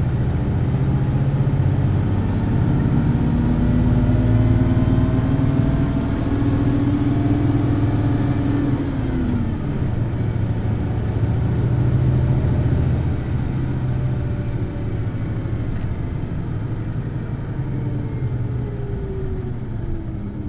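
Hino Blue Ribbon City Hybrid bus heard from on board, pulling away and accelerating with its diesel engine revving high. The engine pitch climbs for about nine seconds, drops abruptly, then climbs again more gently, with a high whine rising and falling above it.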